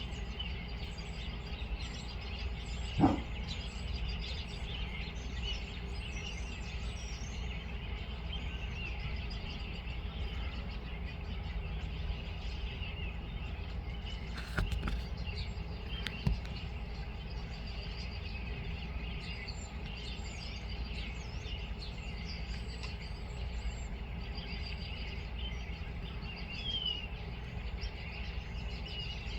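Birds chirping steadily over a constant low background rumble, with a few isolated sharp knocks scattered through.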